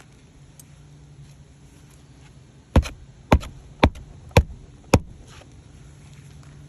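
Five sharp knocks about half a second apart, typical of nails being driven into a roof shingle while a replacement shingle is fastened.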